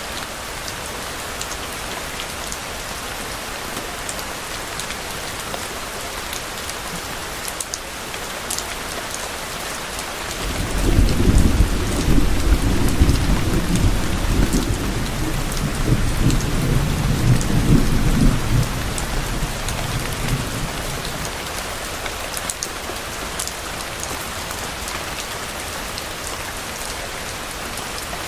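Steady rain falling with scattered drop ticks, and about ten seconds in a low rumble of thunder that swells for several seconds and then fades.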